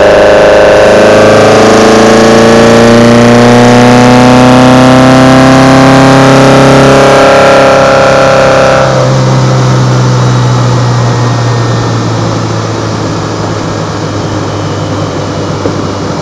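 Kadett GS 16v engine breathing through twin side-draft Solex carburetors, heard close at the intakes, pulling under throttle with its note rising steadily for about eight seconds. About nine seconds in the throttle closes: the intake sound drops away abruptly and the engine runs on, quieter and lower, off the throttle.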